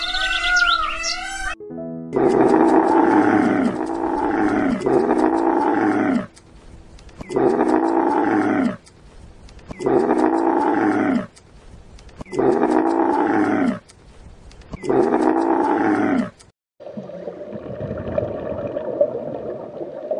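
A big cat roaring seven times, each roar falling in pitch; the first three run together and the rest come about a second apart. A higher call over music is heard in the first second and a half, and a softer rushing sound follows the roars for the last few seconds.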